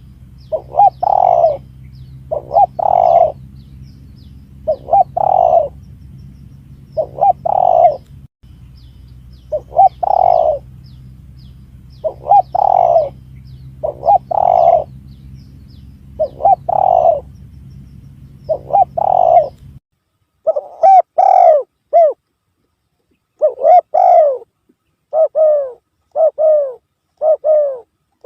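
Spotted dove (tekukur) cooing: a dove-lure recording of repeated coo phrases, each made of short notes about half a second long. A low steady hum runs beneath the first two-thirds and cuts off suddenly, after which the coos come in quicker, closer runs.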